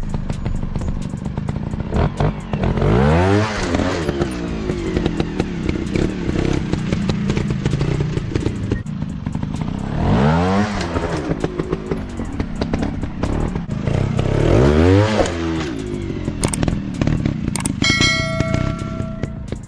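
Dirt bike engine running off-road, revved up and let back down three times in long swells, with a steady clatter of rattling and knocking over the engine.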